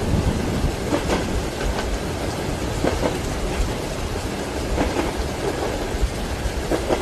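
Moving train carriage with a steady low rumble and the wheels clacking over rail joints, a clack about every two seconds, under the hiss of rain.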